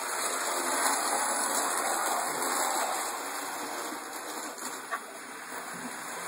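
OO gauge model train running fast on the layout, a steady rushing hiss that swells over the first couple of seconds and eases off after about four.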